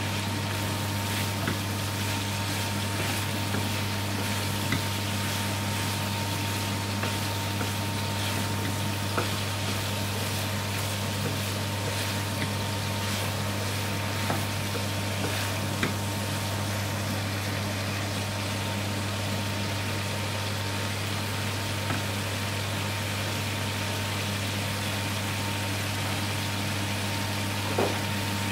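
Chickpeas and vegetables frying in ghee in an aluminium pan on a gas hob: a steady sizzle over a constant low hum, with a few light knocks of a wooden spoon against the pan as it is stirred, the loudest near the end.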